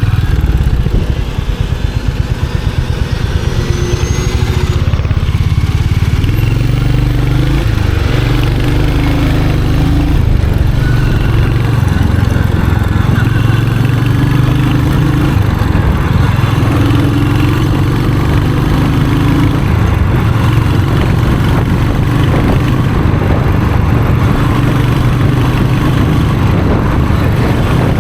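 Royal Enfield Hunter 350's single-cylinder engine and exhaust under way, its note stepping up and down as the throttle opens and closes and the gears change, with a brief lull a second or two in.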